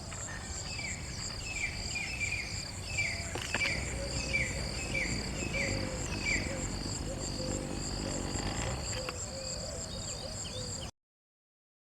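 Insects chirping in a steady, pulsing high drone, with a run of short, falling chirps from a bird about one to six seconds in, over a low background rumble. The sound cuts off suddenly near the end.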